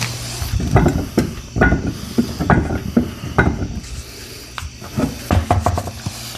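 A series of irregular knocks and clunks from a car wheel and tire being handled as it comes off the hub.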